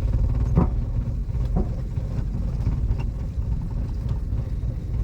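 Steady low rumble of a manual car's engine and road noise heard from inside the cabin as it drives on in second gear, with two brief sounds about half a second and a second and a half in.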